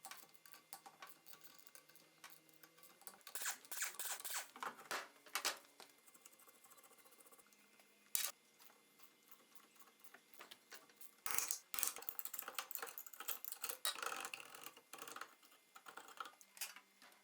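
Scattered metallic clicks, clinks and short rattles of hand tools and parts being handled while taking apart a car's rear wheel and drum brake, in two busy spells with a single sharp click between them.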